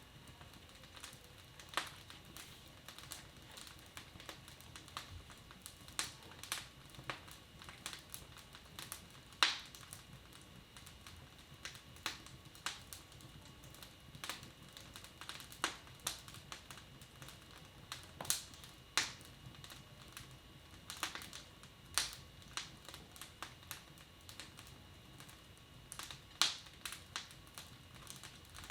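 Wood fire in a fireplace crackling, with irregular sharp pops and snaps of varying loudness over a low steady background.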